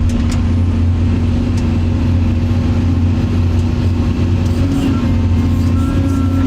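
Steady low engine drone of a running motor vehicle, with an even hum that holds without rising or falling.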